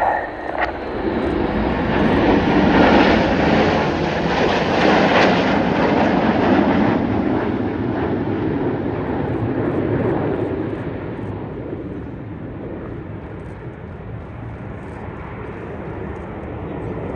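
Red Arrows BAE Hawk T1 jets flying past: the jet noise swells over the first couple of seconds, stays loud for several seconds, then slowly fades away.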